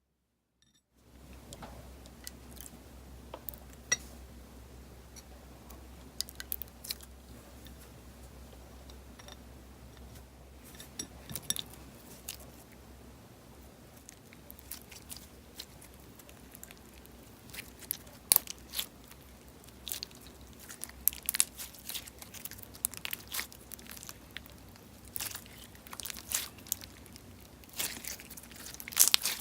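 Slime being pressed and pulled by hand, giving scattered sharp crackles and pops that come more often in the second half, over a steady low hum.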